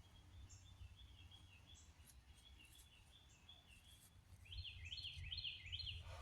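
Faint birds chirping over a low steady rumble, with a run of four quick, louder notes about four and a half seconds in.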